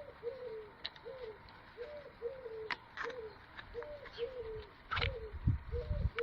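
A bird calling a continuous series of short, low cooing notes, about two a second, with a few sharp clicks and a brief low rumble about five seconds in.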